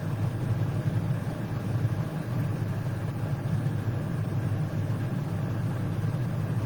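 A steady low rumble, constant throughout, with no speech over it.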